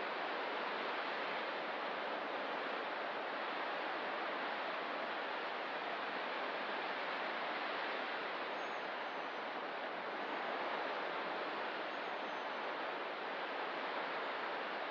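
Steady, even rush of ocean surf. A few faint high chirps come in over it in the second half.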